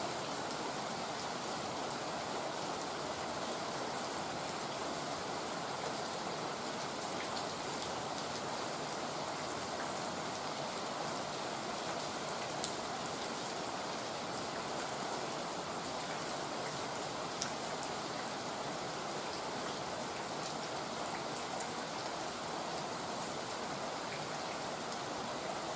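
Heavy rain falling steadily as an even hiss, with a few sharp drops ticking out above it now and then, two most clearly about halfway through and about two-thirds in.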